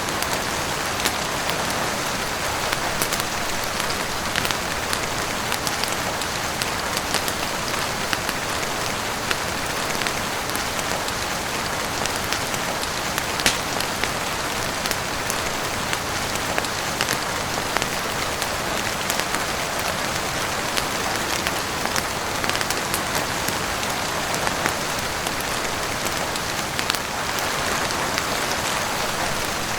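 Heavy rain falling on a roof, a steady even hiss with many scattered sharp clicks throughout.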